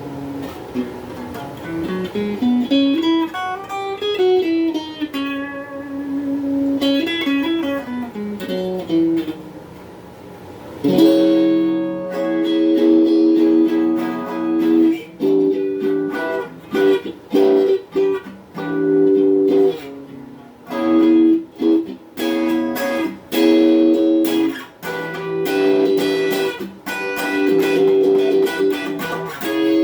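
Donner Q1 HSS Strat-style electric guitar played through a small Cahaya amp. It plays a single-note melody that climbs and falls for about the first ten seconds, then from about eleven seconds in it switches to louder, choppy rhythmic chords.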